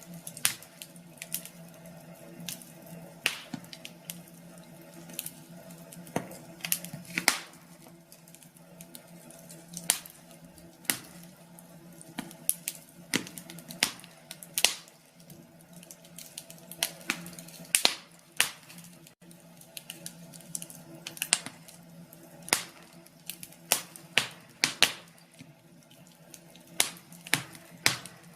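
Wood fire crackling, with irregular sharp pops and snaps, a few of them loud, over a faint steady hum.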